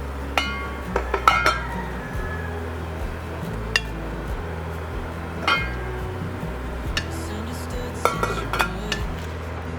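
Kitchenware clinking: a dozen or so sharp, ringing clinks of dishes and cutlery in small clusters, over background music.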